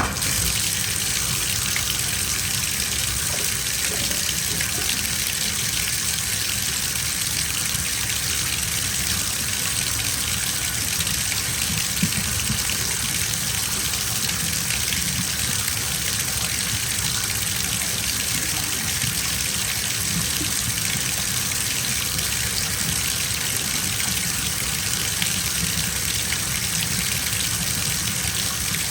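Bathtub tap running steadily, water gushing into a filling tub.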